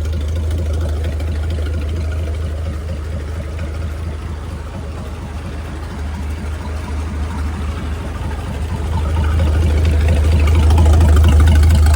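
A freshly overhauled Chris-Craft Model W marine engine, a marinized Hercules WXLD inline six, running warm and steady with a deep, even hum. It grows louder over the last few seconds.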